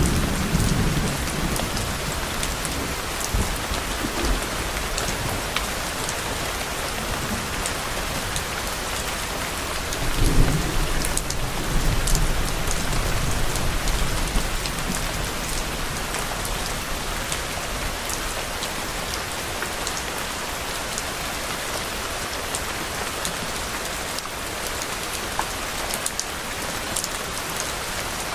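Steady rain falling, with low distant thunder rumbling as it opens and fading within about a second, then rumbling again about ten seconds in for a few seconds.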